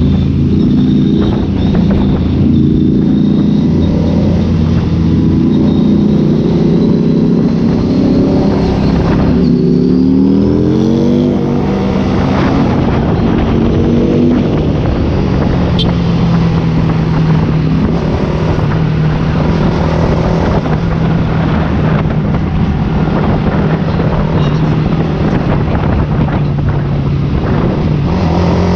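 Ducati Scrambler Cafe Racer's air-cooled L-twin engine and loud exhaust while riding, the engine note shifting with rpm. About ten seconds in it revs up in a rising run, then holds a steadier pitch through the second half.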